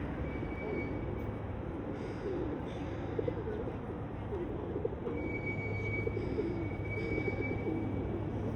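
Feral pigeons cooing over and over in low, wavering coos, over a steady low hum.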